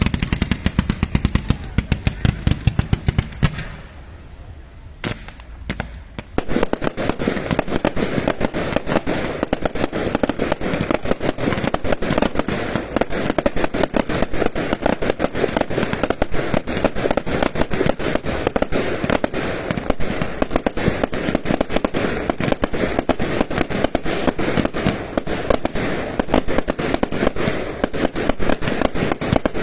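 A long string of firecrackers going off in rapid, dense bangs. They drop away for about two seconds a few seconds in, with a single bang in the lull, then start again without let-up.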